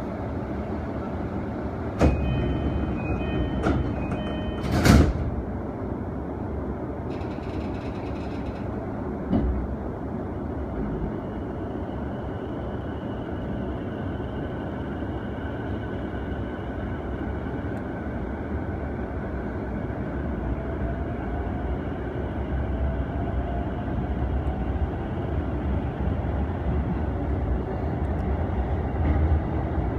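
Inside a Keiyo Line commuter train car: a door-closing chime sounds about two seconds in, and the sliding doors shut with a thud around five seconds. The train then pulls away with a steady rumble and an electric traction-motor whine that rises in pitch as it gathers speed.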